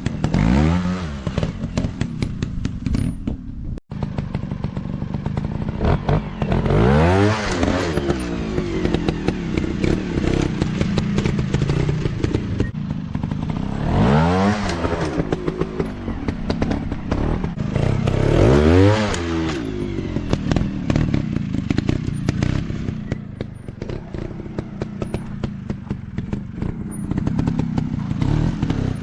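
Dirt bike engine revving hard and easing off again several times, its pitch rising and falling in swells, over a constant clatter of small knocks and clicks.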